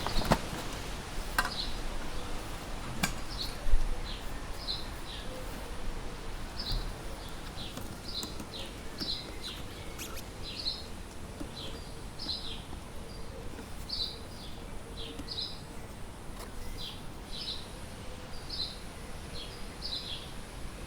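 A small bird calling over and over in short, high chirps, about one or two a second, with a few sharp clicks in the first few seconds.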